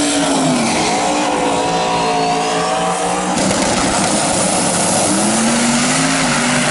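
Loud racing vehicle engines running, their pitch dropping early and climbing again after about five seconds as they rev, with an abrupt change in the sound partway through.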